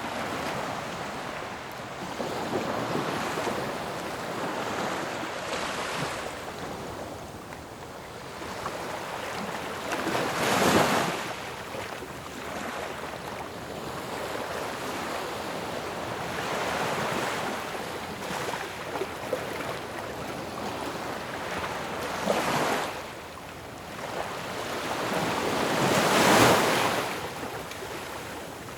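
Ocean waves crashing on a shore: a continuous wash of surf with waves breaking every few seconds, each building and falling away, the loudest about ten seconds in and again near the end.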